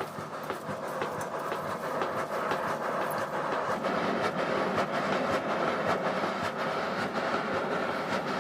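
A steady mechanical rubbing noise with many small irregular clicks running through it.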